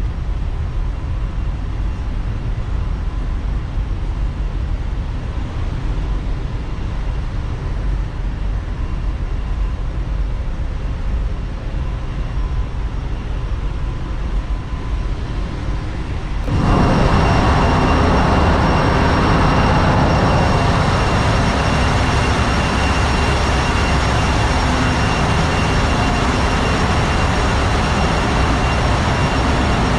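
Ship's engine-room machinery running steadily, a loud low hum. About halfway through it suddenly becomes louder and fuller, with steady high-pitched whines added.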